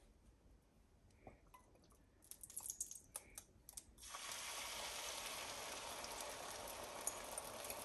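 A few light clicks and clatters, then about halfway through a sudden, steady sizzle of food frying in a hot pan.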